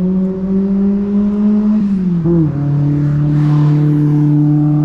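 A motor vehicle's engine is heard loud and close as it accelerates. Its pitch climbs steadily, drops sharply about two seconds in as it changes gear, then holds steady.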